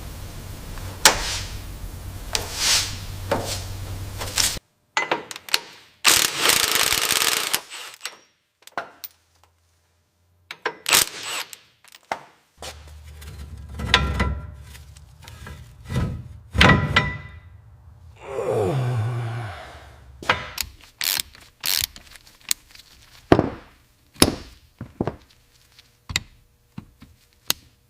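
A string of separate workshop sounds joined by abrupt cuts: knocks and clunks of hand tools on car parts, a low hum under steady noise at the start, about two seconds of loud hissing six seconds in, and a short falling whine near the two-thirds mark.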